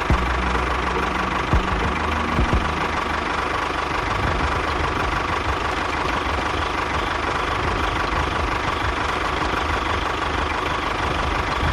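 An engine running steadily at idle with a rough, knocking note, and a few thumps in the first few seconds.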